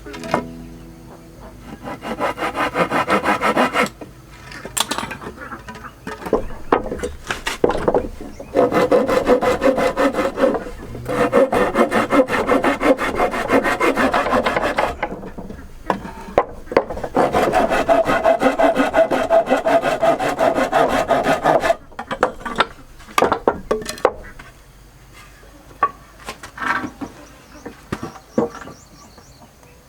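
A tool working wood with a rasping, sawing sound in three long bouts, then a few scattered knocks.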